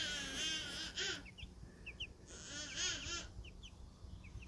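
Chicks peeping in short high chirps, broken twice by a louder, wavering call of about a second: once at the start and once a little past the middle.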